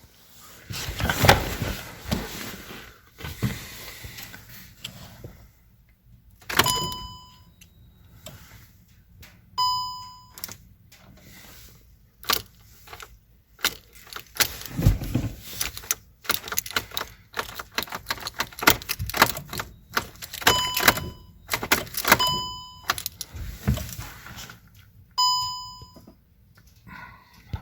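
Handling inside a VW Golf: keys jangling, clicks and thunks of doors or trim, and a short electronic warning beep from the car sounding five times at irregular intervals.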